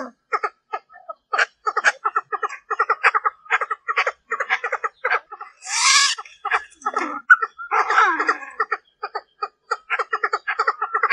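Female Chinese francolin giving rapid short clucks, about three or four a second, broken by a longer harsh call about six seconds in and another near eight seconds. These are hen calls of the kind played as a lure to draw in cock birds.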